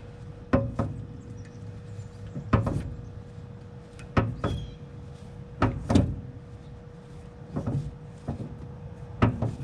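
A series of sharp metallic knocks and clunks, about nine, coming singly and in quick pairs at irregular intervals, from handling a seized HVAC part. Under them runs a steady faint hum.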